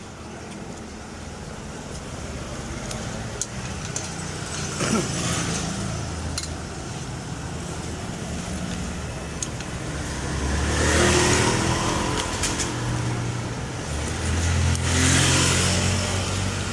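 Road traffic: motor vehicles passing by, with a steady low rumble and two louder passes, one about two-thirds of the way in and one near the end. Light clicks are scattered throughout.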